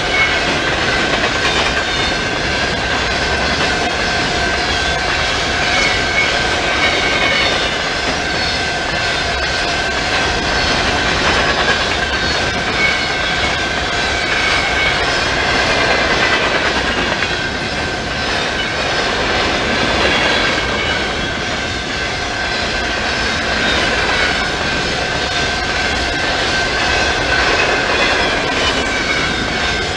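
Freight train of empty covered potash hopper cars rolling steadily past: wheels rumbling and clattering on the rails, with a steady high whine over it.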